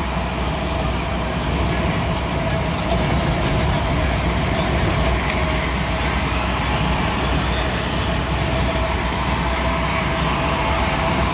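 Cab noise of a Scania P340 truck on the move: a steady diesel engine drone with road and wind noise, and a thin steady whine over it.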